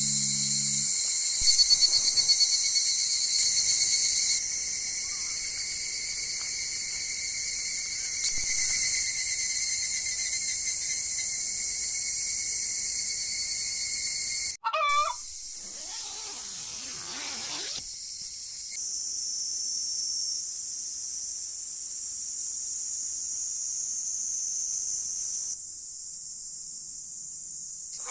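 Insects chorusing steadily, a high-pitched trilling drone that shifts in level several times. Just past halfway a short wavering call breaks in.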